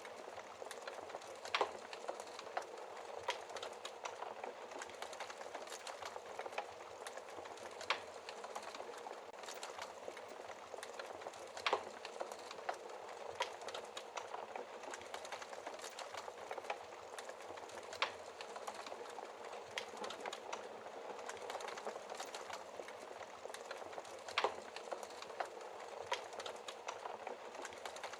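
Wood fire burning in a fireplace: a steady hiss and rustle of flames, with sharp crackles and pops from the burning logs every few seconds.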